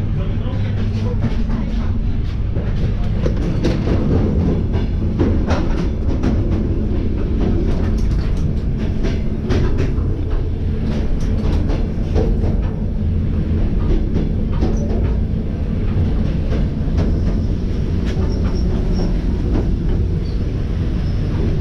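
Electric commuter train running along the track, heard from inside the carriage: a steady, loud low rumble of wheels on rails, with irregular clicks and knocks from rail joints and the car body.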